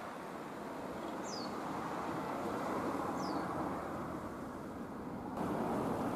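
Steady outdoor vehicle rumble that slowly grows louder, with two short bird calls falling in pitch, about two seconds apart. The background noise changes abruptly near the end.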